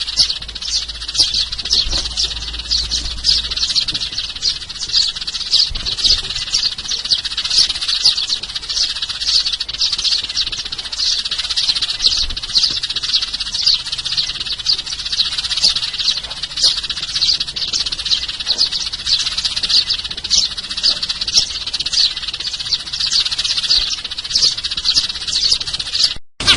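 Sparrows chirping in a dense, unbroken chatter of short high chirps, several a second, as played from a sparrow lure recording. The chatter breaks off briefly near the end.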